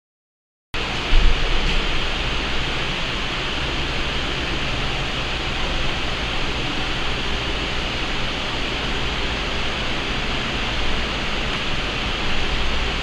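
Steady hiss with a low hum underneath, starting abruptly under a second in and holding even throughout.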